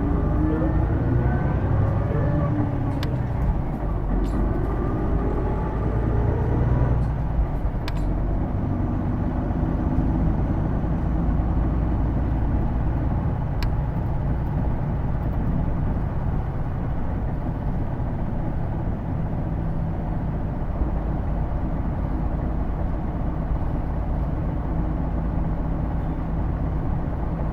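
Hino Blue Ribbon II city bus pulling away, heard from inside the cabin. The diesel engine and a whine rise in pitch together for about seven seconds, then drop back at an upshift and settle into a steady drone while cruising, with a few light rattles. The whine is the distinctive noise this bus is known for, which the uploader takes for transmission noise and says sounds like an automatic.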